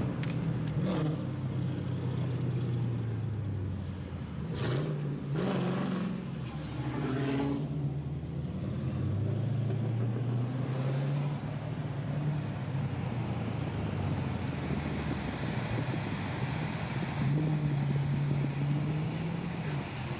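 Dodge Challenger 392 Scat Pack's 6.4-litre HEMI V8 running while driving, its note rising and falling as the speed changes. There are a few louder rushing sounds about four to seven seconds in.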